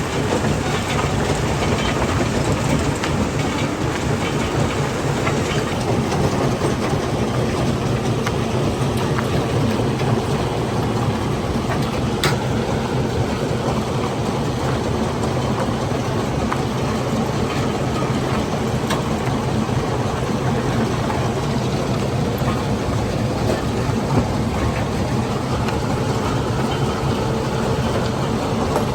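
Stone-crushing plant machinery running: a loud, steady rumble with a low hum, and a single sharp click about twelve seconds in.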